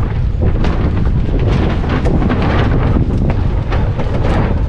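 Strong wind buffeting the microphone: a loud, dense low noise broken by irregular sharp cracks.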